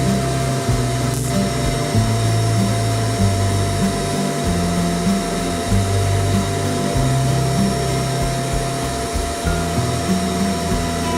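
A steady electric motor hum with a constant rush of air-like noise, over background music with a slow, stepping bassline.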